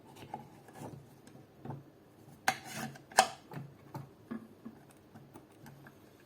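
Small clicks, taps and rubbing of a polymer AK pistol grip being handled and fitted onto the rifle's gearbox, with two sharper plastic clacks about halfway through.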